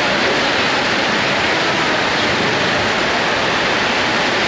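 Heavy tropical downpour, a loud steady rush of rain that does not let up.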